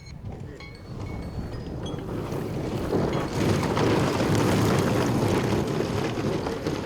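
Large radio-controlled model aircraft in flight, its engines giving a rushing noise that swells about three seconds in as it passes close, then eases slightly.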